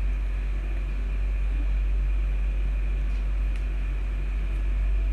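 A steady low hum with an even background hiss and a faint high steady tone, unchanging throughout.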